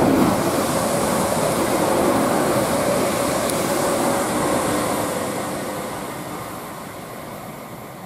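London Northwestern Class 350 Desiro electric multiple unit passing through the station at speed. Its rush of wheel and air noise is loudest at the start, then fades steadily as it draws away.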